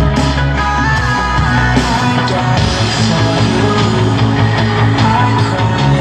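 A rock song with singing, played loudly and continuously through an amplifier and speaker as a sound test.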